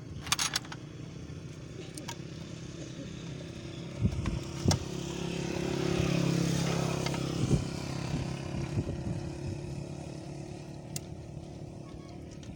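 A motor vehicle's engine passes by, its sound rising to a peak about six to seven seconds in and then fading. Sharp metallic clinks sound near the start and again about four seconds in.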